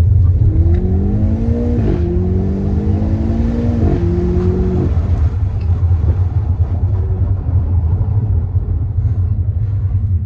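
BMW M8 Competition's twin-turbo V8 accelerating hard, its pitch climbing and dropping sharply at two upshifts about two and four seconds in, then easing off about five seconds in, leaving a steady low rumble.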